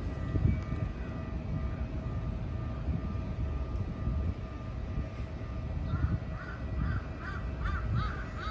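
Low rumble of an electric train, a Keikyu 1000-series set, with a faint steady whine. From about six seconds in, a crow caws in a quick run of calls.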